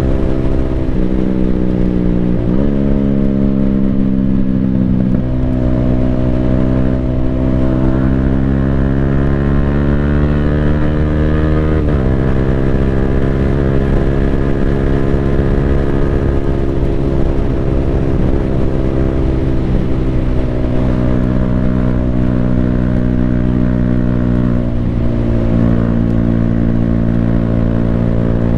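Yamaha Sniper 155R's single-cylinder four-stroke engine running through an Akrapovic full-system exhaust while riding. Its pitch climbs steadily under acceleration and drops abruptly twice, at about 2.5 s and about 12 s, at quick-shifter upshifts, then settles into steady cruising.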